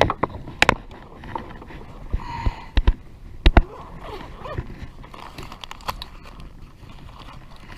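Scattered sharp knocks and clicks on a fishing kayak while a hooked bowfin is brought in and handled. The loudest is a close pair about three and a half seconds in.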